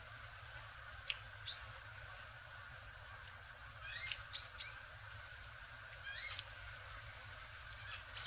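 Small wild birds calling in short, quick chirps: single calls early on, a fast run of three or four about four seconds in, and a few more later, over steady faint background noise.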